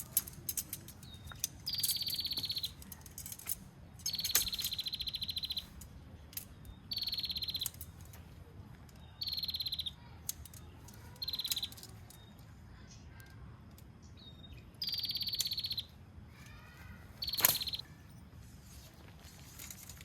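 An animal in the forest repeats a high, fast-pulsed trill about six times, each trill lasting up to a second and a half, over a steady low background. A few sharp clicks are heard, with a loud click near the end.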